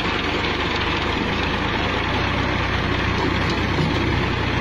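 Tractor diesel engine running steadily with a low, even rumble.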